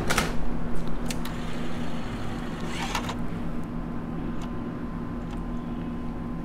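Room tone: a steady low hum, with a few sharp clicks and a brief swish of movement in the first three seconds. A faint, steady high whine joins about three seconds in.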